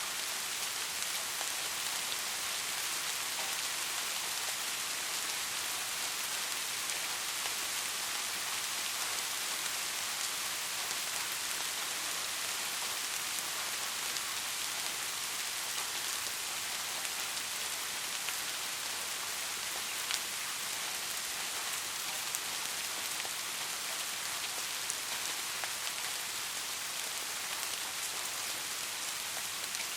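Steady rain falling, an even hiss with the fine patter of individual drops.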